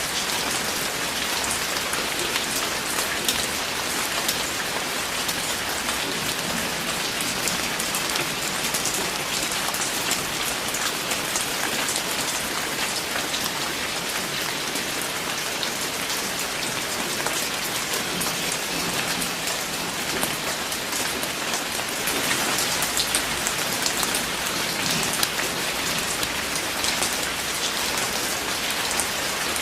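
Steady rain falling on a surface, with dense patter of individual drops.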